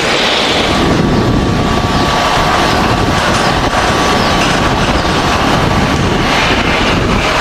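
Jet engines of an Airbus A350-900 airliner running at high power: a loud, steady rushing noise with a faint steady whine above it.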